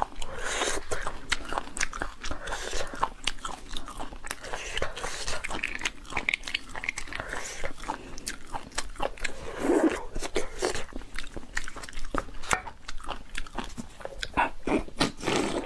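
Close-miked eating sounds of a person chewing braised bone marrow: wet chewing with many sharp, irregular mouth clicks and smacks.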